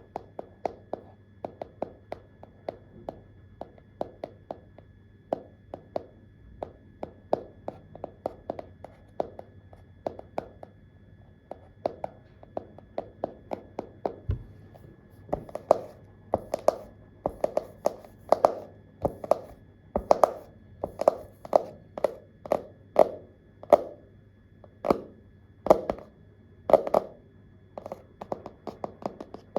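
Keyboard keys being tapped in an uneven typing rhythm: quick, lighter keystrokes at first, then slower, harder strokes from about halfway.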